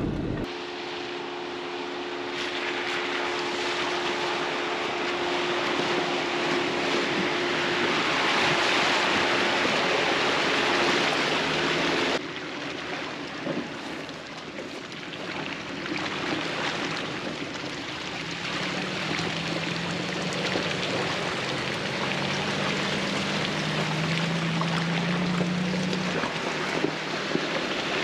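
4x4 vehicle driving a dirt trail: a low steady engine hum under a loud, steady rushing noise. The sound cuts off abruptly about twelve seconds in and picks up again, with the engine hum lower later on.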